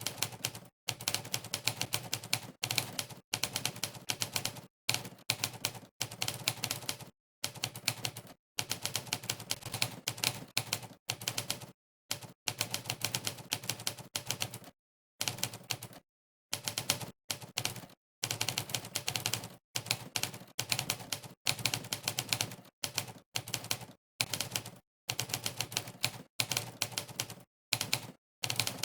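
Typewriter key-strike sound effect from a typing-test website, one click per keystroke, in fast runs broken by short, dead-silent pauses.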